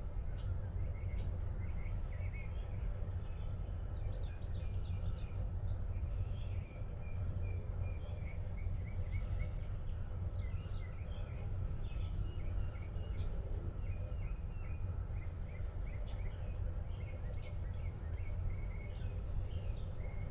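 Gentle rain falling steadily, with scattered sharp ticks. Small birds chirp throughout in quick runs of short notes.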